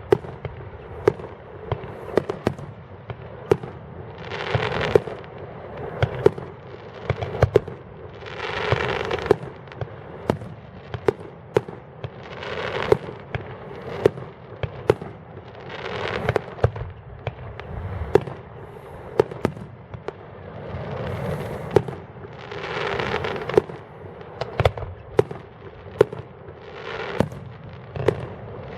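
Fireworks display: a steady run of sharp bangs and pops, with longer, noisier swells lasting about a second every few seconds.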